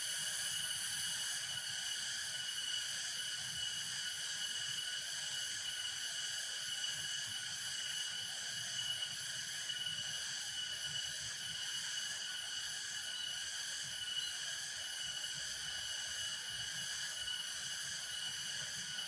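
Steady chorus of insects, a high, rapidly pulsing buzz in several layers, with a faint low rumble underneath.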